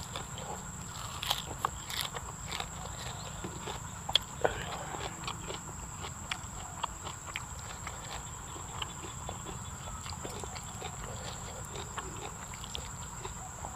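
Close-up chewing with many small wet mouth clicks and smacks as a man eats raw beef laab and fresh herb leaves. A steady high insect drone runs underneath.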